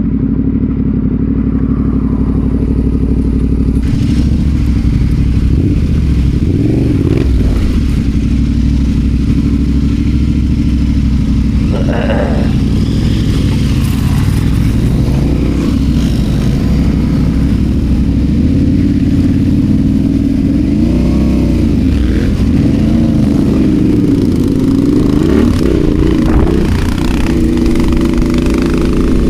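Adventure motorcycle engine running as it is ridden, its revs rising and falling.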